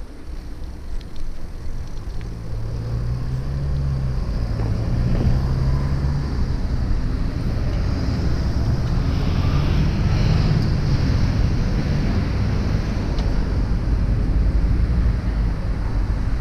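Wind rumbling on the microphone of a moving bicycle, with street traffic underneath; it grows louder over the first few seconds, then holds steady.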